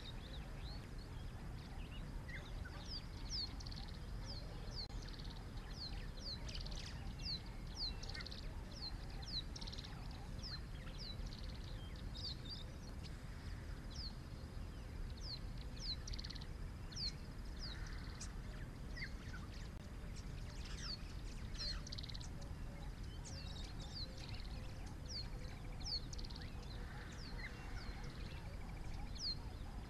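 Wild birds calling: many short, high, falling chirps at an irregular pace of one or two a second, with a few rougher calls mixed in, over a low steady rumble.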